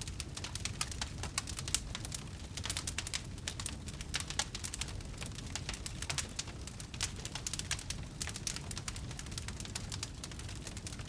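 Wood fire in a fireplace crackling, with many small irregular pops over a low steady rumble of the flames.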